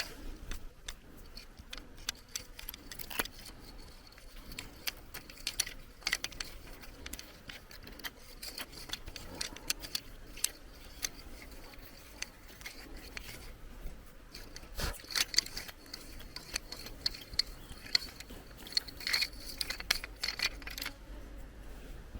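Irregular small clicks, rattles and light scraping, as of small hard objects being handled, with a faint steady high tone underneath. The clicks come thickest in the second half.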